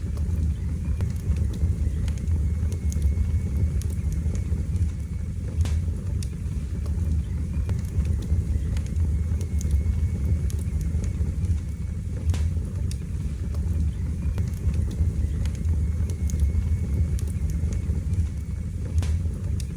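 Wood fire burning in a fireplace: a steady low rumble of flames with scattered crackles and sharp pops, a few louder pops about six, twelve and nineteen seconds in.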